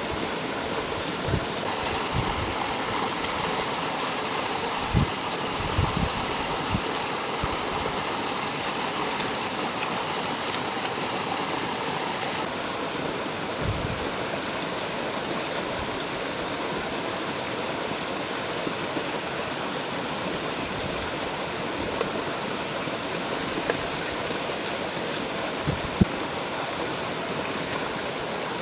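Stream water running steadily over rocks, with a few brief low thumps.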